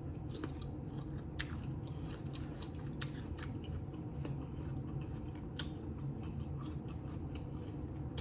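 Close-up chewing with scattered wet mouth clicks and smacks, over a low steady hum.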